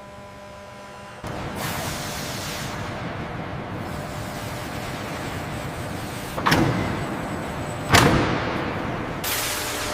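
A steady rushing, machine-like noise starts about a second in, broken by two sharp, loud knocks about a second and a half apart, the second the louder.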